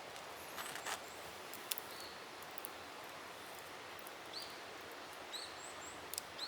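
Forest ambience: the steady rush of a nearby river, with a few short high bird chirps and scattered light clicks.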